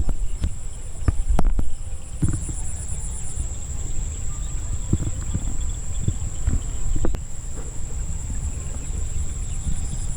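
Insects trilling steadily at dusk: one high even tone with a faster pulsing trill above it. Under it runs a loud low rumble with scattered small clicks.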